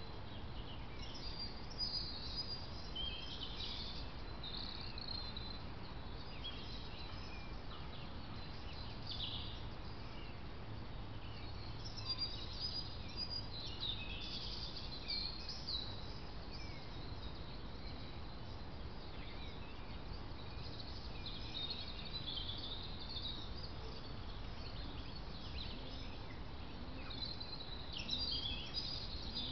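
Small songbirds singing and calling, many short high chirps and phrases scattered throughout, over a steady low background hiss.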